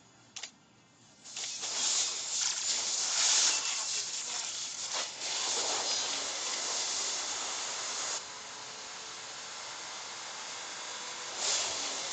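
A steady, loud hiss starts about a second in. It drops to a quieter steady hiss about eight seconds in and grows louder again near the end.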